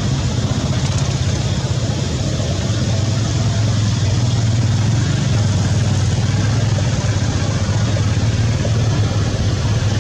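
A motor running steadily, a low hum with an even hiss above it.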